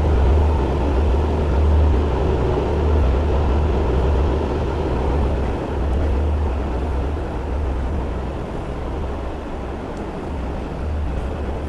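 Steady low rumble of a train running at a railway station, with an even noise over it.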